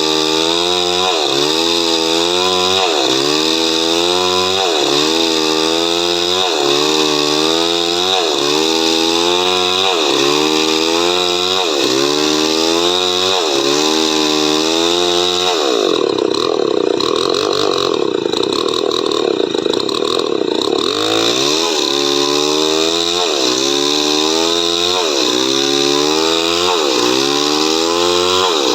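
Chainsaw sawing coconut wood, its engine pitch dipping under load and recovering about once every second and a half. For about five seconds in the middle it runs at a steadier pitch, then the regular dips return.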